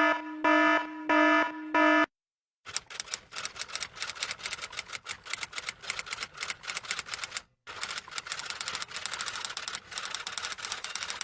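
Four short electronic beeps, then after a brief pause a long run of rapid typing clicks like fast keystrokes, which stop briefly about three quarters of the way through before going on.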